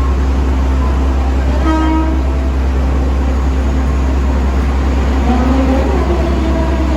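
Railway station noise with a steady low rumble of a train, and a short horn toot about two seconds in.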